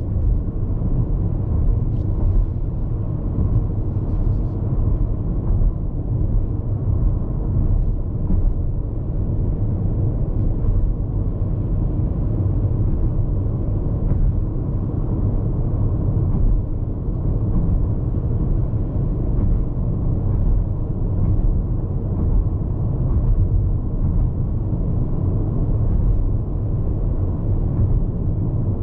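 Road noise inside the cabin of a Hyundai IONIQ 5 electric car cruising on the highway: a steady low rumble from the tyres, with some wind noise.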